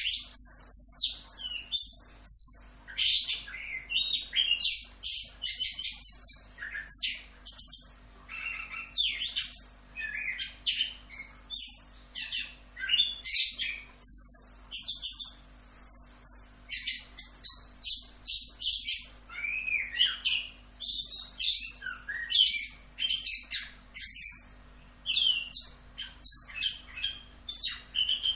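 Chestnut-capped thrush (anis kembang) singing a continuous rolling song: a dense, rapid run of varied high whistles, trills and chirps with hardly a pause. The song starts abruptly at the outset.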